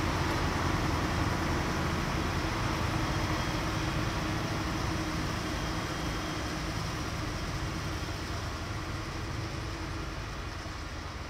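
A train running past and moving away, its steady running noise with a low hum slowly fading.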